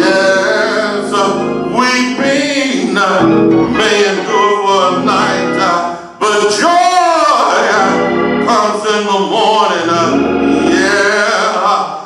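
Gospel singing with instrumental accompaniment: a male voice sings held, wavering notes, with a short break about six seconds in.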